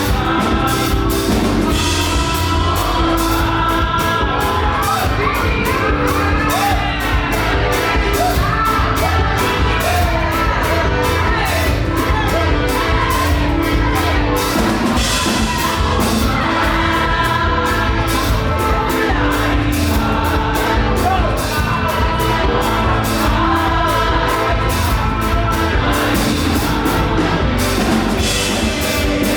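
Live up-tempo gospel praise music with a band and a steady drum beat, with group singing and whoops from the crowd, echoing in a large hall.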